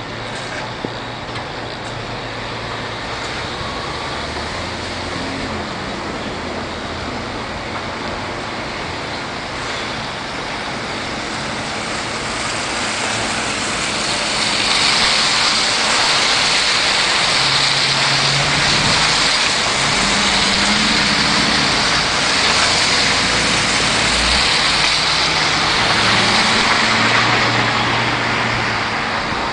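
Street traffic: motor vehicles running, with steady road noise that grows louder about halfway through and eases off near the end.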